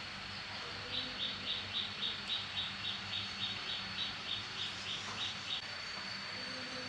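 An animal calling a rapid run of short, high chirps, about four a second, starting about a second in and stopping just past the middle. A steady thin high whine and a low hum run underneath.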